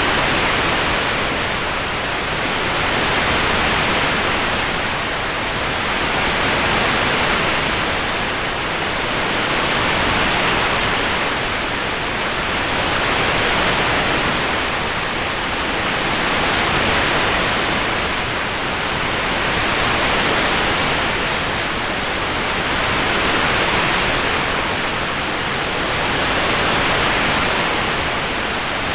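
A steady hiss of a rain-sounds track, like continuous rain, that swells and eases gently about every three seconds.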